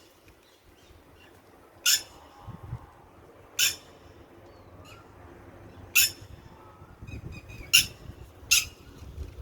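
Red-wattled lapwing calling: five short, sharp, high calls at irregular intervals of one to two seconds, with fainter bird chirps in between.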